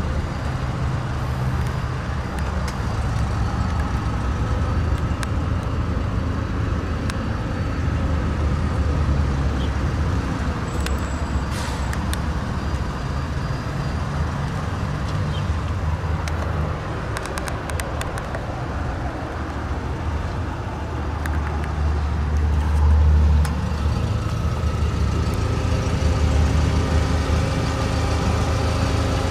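2014 Haima M3's engine idling steadily, a low rumble that swells briefly a little past the middle, with a few faint clicks.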